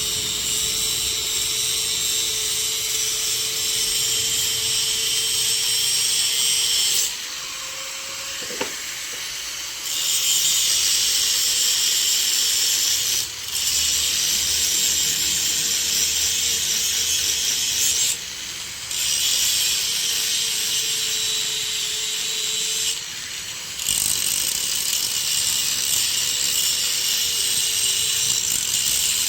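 Angle grinder cutting metal: the disc hisses against the work in long stretches, and four times it lifts off briefly, the motor's whine rising slightly with the load gone.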